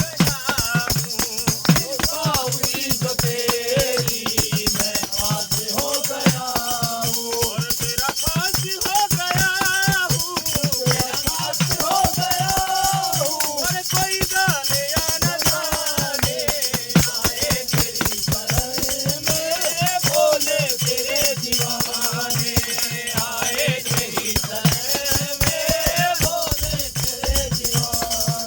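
A group of men singing a Hindu devotional bhajan together, with rattling hand percussion keeping a fast, steady beat.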